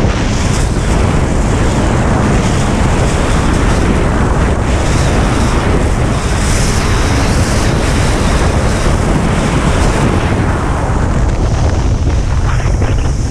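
Heavy wind buffeting on the microphone and rushing water, as from a racing jet ski moving at speed, with no distinct engine note coming through.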